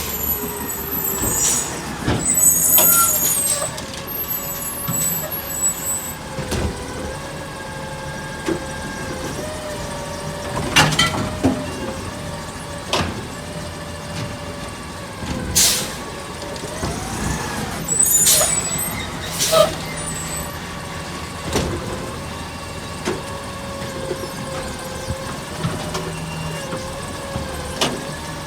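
Autocar garbage truck running with a steady whine, with sharp air hisses near the start and again about two-thirds through, and a few loud clunks in between.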